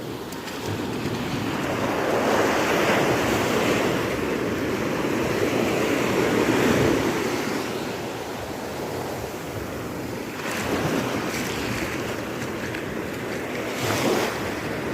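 Sea waves breaking and washing in, in surges: a long swell of surf noise a couple of seconds in, then two shorter ones near the end.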